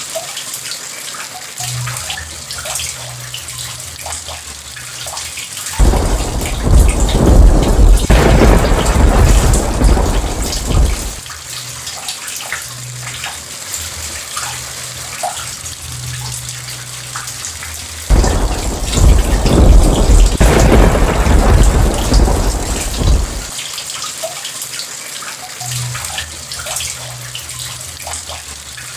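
Thunderstorm: steady rain falling, with two long rolls of thunder, one about six seconds in and one about eighteen seconds in, each rumbling for around five seconds before dying away.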